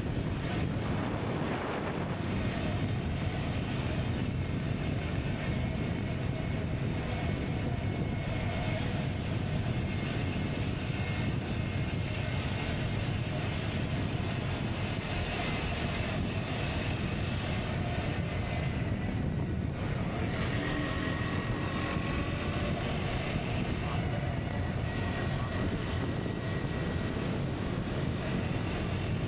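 KTM Duke 125's single-cylinder engine running steadily through an Akrapovic exhaust while the bike is ridden, with wind noise on the microphone.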